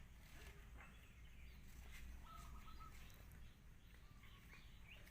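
Near silence: quiet outdoor background with a low hum and faint, scattered bird chirps, one a short thin whistle about two and a half seconds in.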